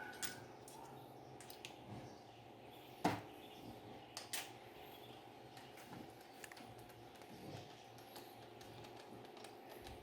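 Faint scattered clicks and taps of screws being fitted into the gearbox cover of a washing machine's transmission, with one sharper click about three seconds in, over a faint steady hum.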